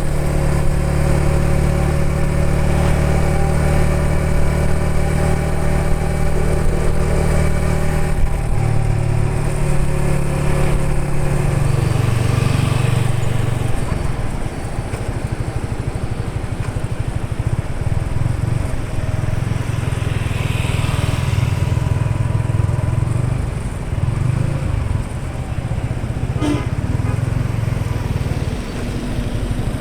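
Yamaha XSR 155's single-cylinder engine running, steady and even at first, then turning rougher and more uneven about twelve seconds in.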